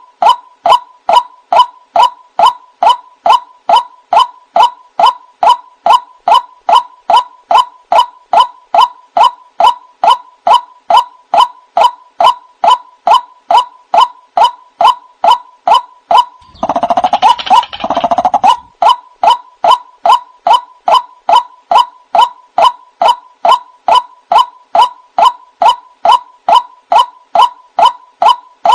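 White-breasted waterhen calls played as a lure: a single note repeated about twice a second, monotonous and even. A little past halfway, a louder, harsher burst of calling breaks in for about two seconds.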